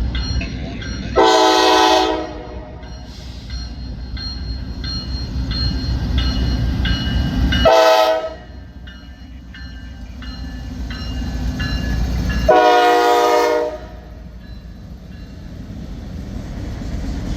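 Freight locomotive air horn sounding three blasts, the middle one short, over the steady rumble of an approaching freight train.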